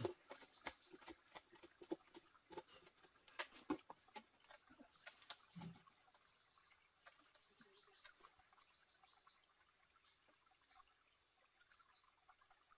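Light clicks and taps of hand-handling in the first few seconds, then faint, short high chirps of a bird repeating every second or so.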